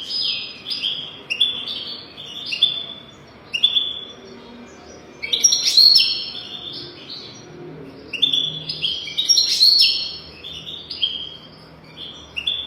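European goldfinch singing: a continuous string of quick, high twittering notes and trills, loudest in runs about halfway through and again toward the end. It is a goldfinch song used to tutor young goldfinches.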